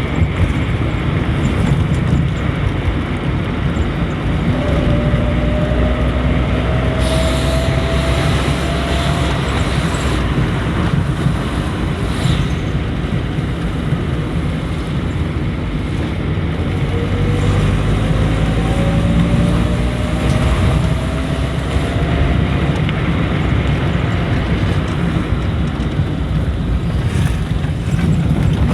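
A road vehicle on the move, with a steady low rumble of engine and road noise. Twice a faint engine tone rises slowly as it picks up speed.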